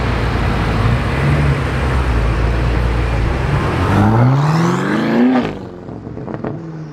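BMW Manhart MH8 800's twin-turbo V8 running at low speed, then accelerating hard about four seconds in, its pitch climbing for over a second before dropping away suddenly as the car passes and pulls off.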